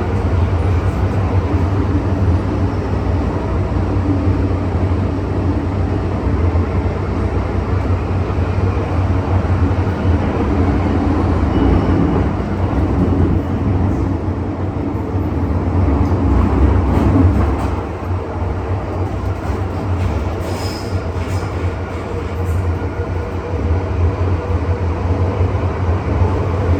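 MTR Tsuen Wan line M-Train (Metro-Cammell electric multiple unit) running along the track between stations: a steady rumble of wheels and running gear that eases a little about 17 seconds in.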